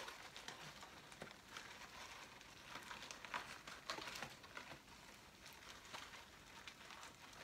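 Faint crunching of popcorn being eaten, heard as scattered small crackles and crinkles.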